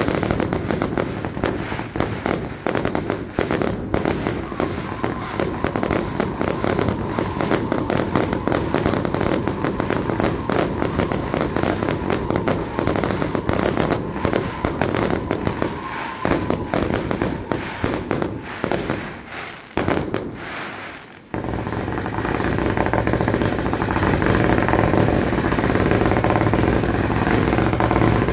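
Fireworks going off: a dense, continuous crackle of rapid reports for about twenty seconds. After a brief break, a steadier rush of rapid-fire launches runs to the end.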